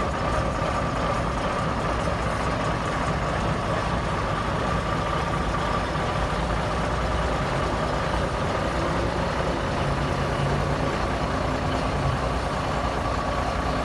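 Cummins Big Cam diesel engine of a 1980 Kenworth W900A idling smoothly and steadily, with a thin steady whine over the engine note.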